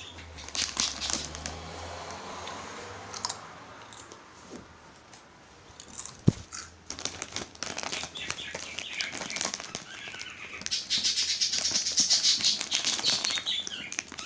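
A pet bird chirping and tweeting over scattered clicks and rustles, with a busy run of rapid high chirps about ten seconds in.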